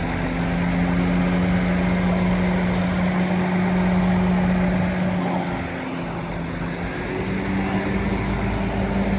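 Heavy machine's engine running steadily. It drops slightly in pitch and loudness about five and a half seconds in, then picks up again near the end.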